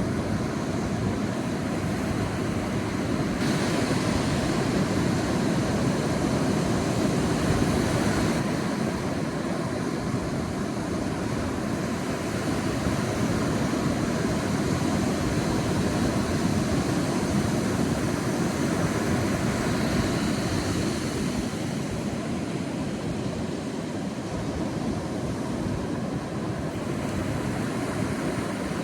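Sea waves breaking and washing on a beach in a continuous low surf, swelling and easing slowly, with a bigger surge from about three to eight seconds in.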